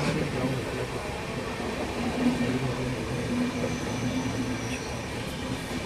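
Steady running noise of a moving Indian Railways passenger train, heard from on board, with a sharp click right at the start.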